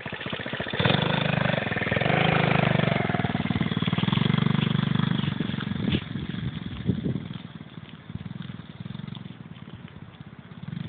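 Dirt bike engine revving as the bike pulls away, loud for the first few seconds with rises and dips in revs, then fading as it rides off.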